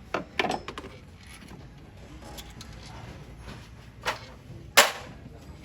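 A few sharp knocks and clinks of hand tools on car parts during engine work: two close together near the start, another about four seconds in, and the loudest just before the end.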